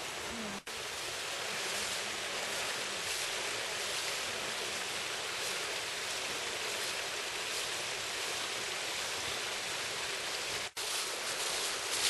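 Steady rush of a running stream, with no other distinct sound.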